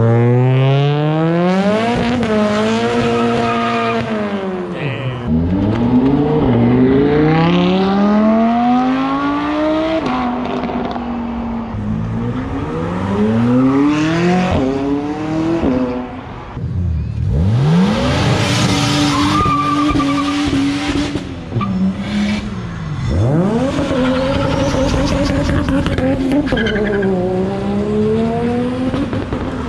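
Several high-performance cars accelerating hard away one after another, their engines revving up through the gears with the pitch climbing, dropping at each shift and climbing again.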